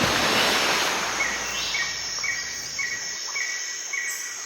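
Insects buzzing in a steady outdoor chorus, with a short high chirp repeating a little under twice a second.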